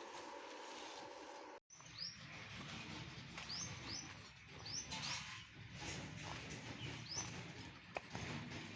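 Faint bird chirps: about six short, high, down-sweeping calls over several seconds, against a low background hum.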